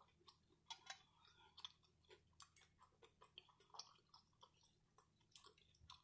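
Faint, close-miked chewing of a person eating nachos: a steady scatter of small wet mouth clicks and smacks, a few a second.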